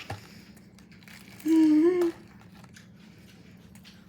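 A short, wavering vocal sound from a person, about half a second long, about a second and a half in. Faint crinkling and small clicks around it.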